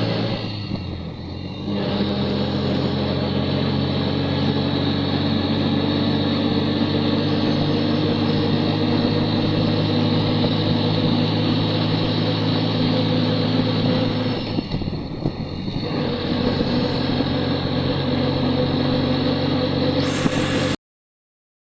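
A vehicle engine running steadily, easing off briefly twice, with the sound cutting off suddenly near the end.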